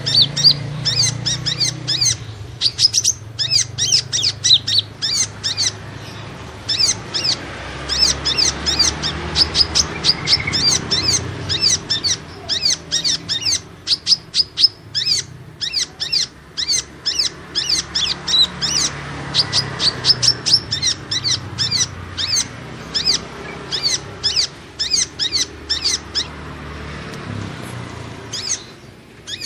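Kolibri ninja, a small sunbird, calling in fast runs of sharp, high chirps, several a second, with short pauses, played as a trapping lure call. A low steady hum lies underneath.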